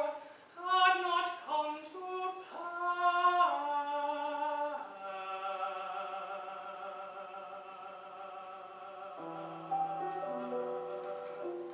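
Mezzo-soprano singing a classical art song with piano accompaniment. Her phrase ends about five seconds in, and the piano carries on alone with sustained, slowly fading chords.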